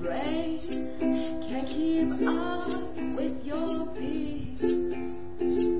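Ukuleles strummed in a steady song rhythm, with an egg shaker keeping the beat at about two shakes a second and a voice singing over them.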